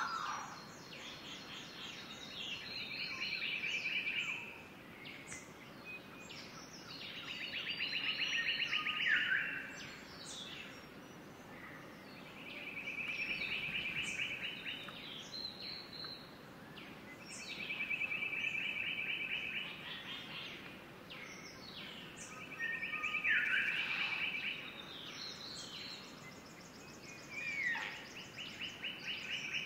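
A bird singing: a rapid rattling trill repeated about every five seconds, several phrases ending in a downward-sliding note, over a steady background hiss.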